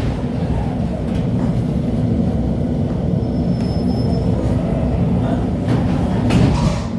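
Running noise inside an LHB TW2000 light-rail car: a steady low rumble, with a few knocks from the track. A faint high whine comes in briefly midway.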